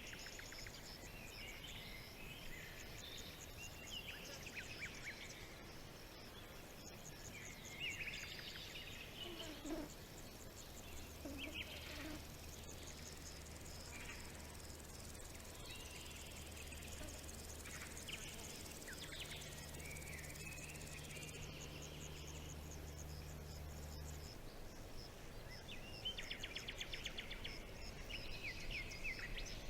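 Forest ambience: several birds singing in short, repeated phrases over the steady, fast chirring of insects, with a quick rapid trill from one bird near the end.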